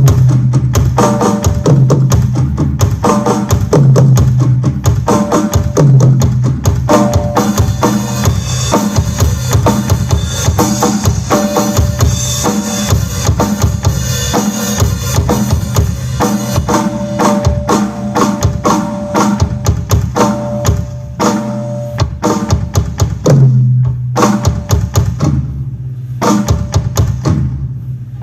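Mapex Pro M Series maple drum kit played through a live PA sound system during a drum sound check: continuous beats and fills, with deep low drum hits booming out about every two seconds and a brighter, busier stretch in the middle.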